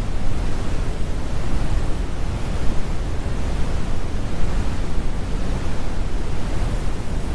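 Synthetic brown noise: a loud, steady rumbling hiss weighted toward the low end, with little high-frequency content and no changes.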